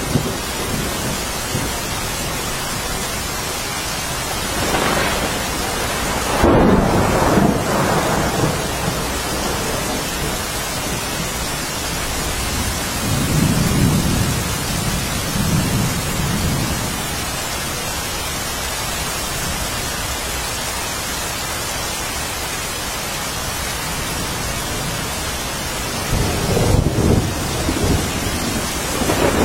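Steady rain falling, with low rolls of thunder rising three times: about five seconds in, around the middle, and near the end.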